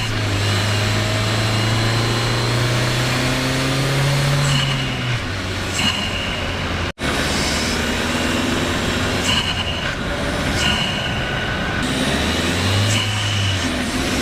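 Renault Kadjar's 1.2 TCe turbocharged four-cylinder petrol engine pulling uphill. The engine note climbs slowly, drops suddenly about five seconds in, and rises and drops again near the end, with a brief cut-out in the sound about halfway.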